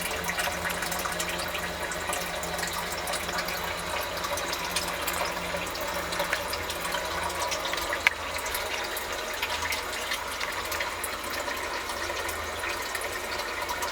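Water running steadily in a basement sump pit, with a low hum, as groundwater keeps flowing in and the sump pump runs constantly. A single sharp click about eight seconds in.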